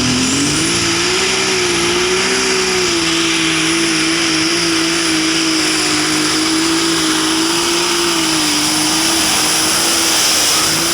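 Light super stock pulling tractor's turbocharged diesel engine at full throttle under load during a pull. The engine note climbs in the first second, then holds steady with small dips, with a steady high whine above it.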